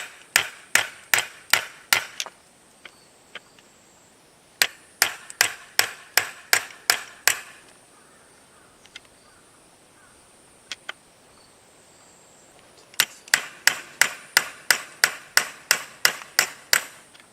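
Hammer blows in three quick runs of about three blows a second, striking hard at a stuck part while a car air-conditioning fan motor is being changed.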